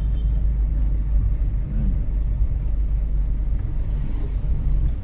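Steady low rumble of a vehicle on the move: engine and road noise, heaviest in the lows, with no sudden events.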